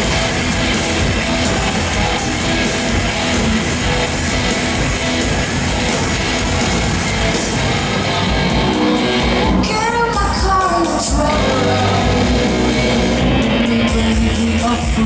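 Live rock band with a singer, playing loud and recorded from the crowd at a concert. About two-thirds of the way through, the cymbals drop out for a second or so, leaving the sung line to stand out, then the full band comes back in.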